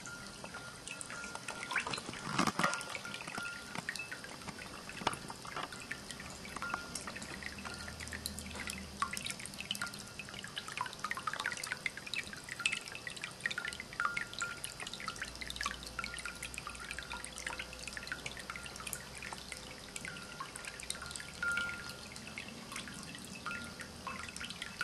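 Water from a stoneware cat drinking fountain trickling and dripping into its basin, with many small, irregular splashes and drips.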